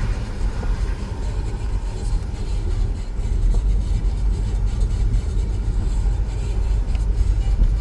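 Storm wind buffeting the microphone: a loud, steady low rumble that swells and eases without any clear engine tone.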